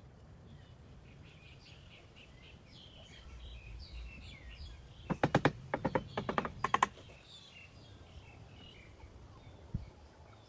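A quick run of about ten sharp taps about five seconds in, lasting under two seconds, with small birds chirping throughout.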